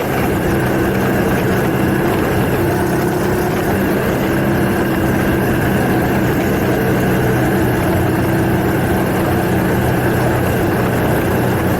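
Kawasaki Estrella motorcycle's single-cylinder engine running steadily at an even speed, with a constant low hum and road and wind noise.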